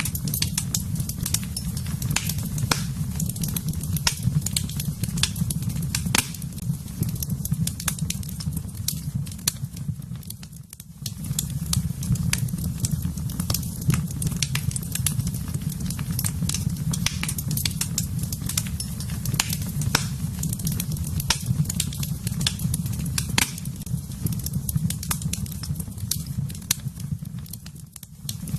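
Wood fire in a fireplace burning, with a steady low rumble and frequent irregular crackles and pops. The sound dips briefly twice, about eleven seconds in and near the end.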